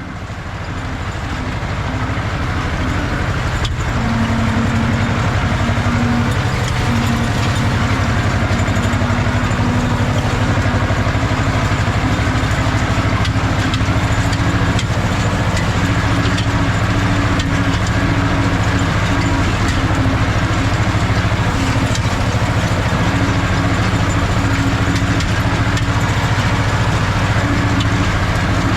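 Ursus C-330 tractor's two-cylinder air-cooled diesel engine running steadily, fading up over the first few seconds.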